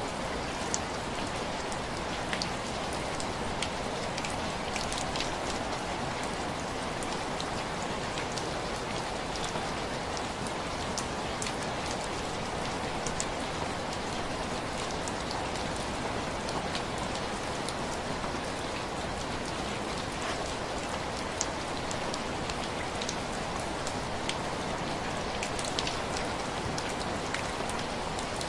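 Heavy rain falling steadily, with scattered sharp little ticks over the even hiss.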